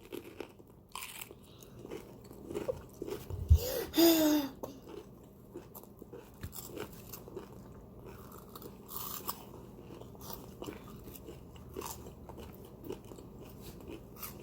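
Close-up biting and chewing of crunchy, chip-coated stuffed jalapeños: repeated small crunches and crackles of the crushed tortilla-chip coating being chewed. A sharp knock and a brief voice sound come about three and a half to four seconds in.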